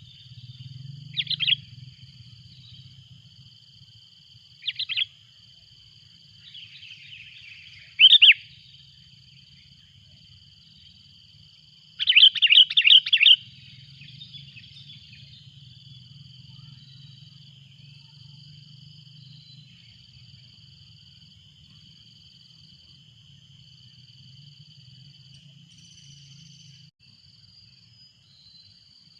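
Sooty-headed bulbul calling loudly in short bright phrases, one about a second in, then around 5 s and 8 s, and a quick run of about five notes near the middle, over a steady high insect drone.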